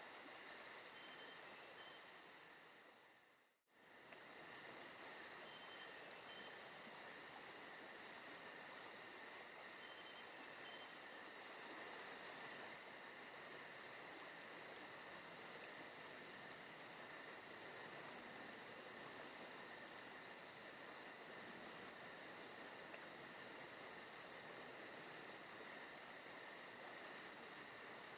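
Forest ambience: a faint, steady chorus of crickets and other insects chirping in a fast, even pulse. About three and a half seconds in it fades out almost to nothing and comes straight back.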